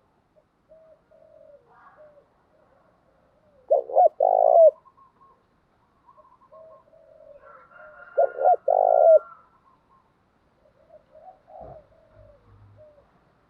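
Spotted doves cooing: two loud phrases of two or three rolling coos, about four seconds in and again about eight to nine seconds in, with fainter, softer cooing in between.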